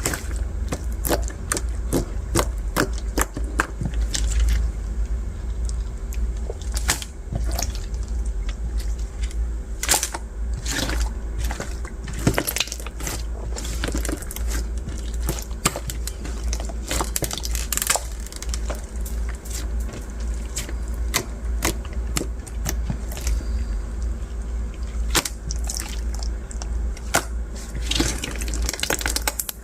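Translucent bead slime being squeezed and pressed by hand: irregular crackling clicks and pops from the beads, with soft squishing.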